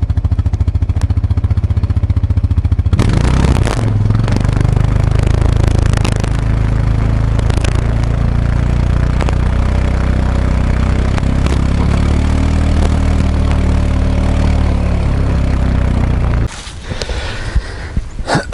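Kawasaki ATV engine idling with an even beat, then picking up speed about three seconds in and running steadily under way. It drops away shortly before the end.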